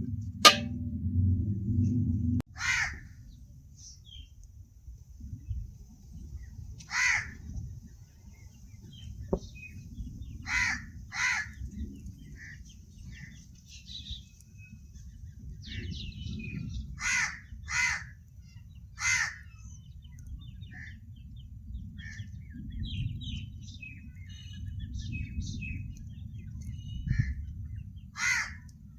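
Crows cawing: short harsh calls, singly and in quick pairs, spread at irregular intervals over a low steady rumble. A few seconds of background music fade out at the start.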